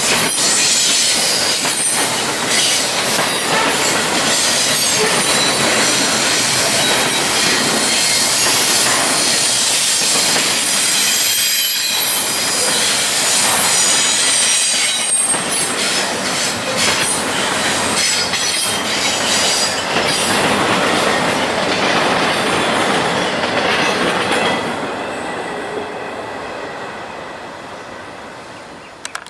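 A train rolling past, its railcar wheels squealing and clacking over the rails. The sound fades steadily over the last few seconds as the train moves away.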